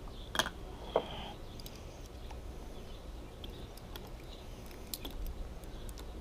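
Two sharp clicks about half a second apart near the start, then scattered light ticks: metal tools and fittings being handled while watermaker membrane housings are lined up and fastened, over a low steady hum.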